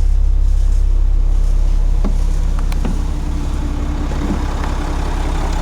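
Blue Bird TC2000 RE school bus's rear-mounted engine idling steadily, with a few faint knocks about two to three seconds in.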